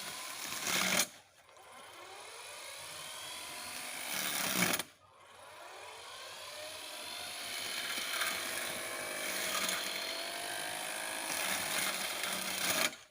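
Electric motor of a solar-powered grass cutter running. It cuts out abruptly twice and winds back up gradually each time.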